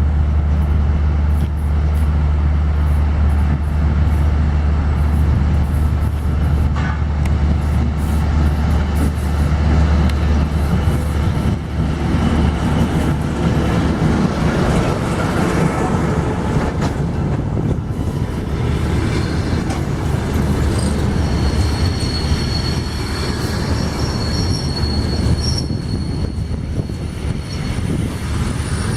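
ChME3 diesel shunting locomotive's engine running with a low steady drone as it moves a string of passenger coaches, with rail and wheel rumble. In the second half, the coach wheels squeal on the rails in steady high tones.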